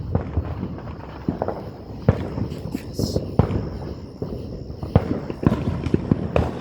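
Fireworks going off: a string of irregular sharp pops and crackles.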